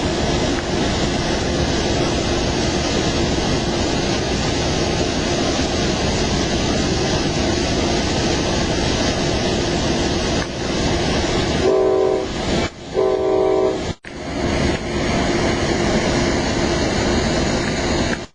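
Passenger train running along the rails, a steady loud rumble, with a train horn sounding two blasts of about a second each, a chord of several notes, about two-thirds of the way through.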